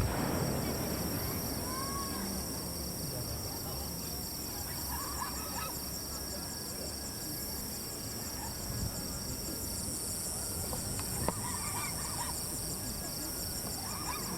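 An aerial firework shell bursts right at the start, its low boom rumbling away over a few seconds. Then comes a lull, with steady insect trilling, a few faint distant voices, and one sharp pop about eleven seconds in.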